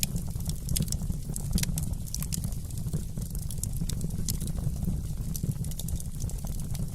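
Wood fire crackling in a fireplace: many small, sharp pops and snaps scattered irregularly over a steady low rumble of the burning fire.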